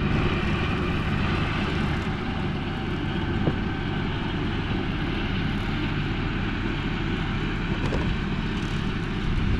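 John Deere 5045E tractor's three-cylinder diesel engine running steadily while powering an MX8 rotary cutter (bush hog) through field mowing.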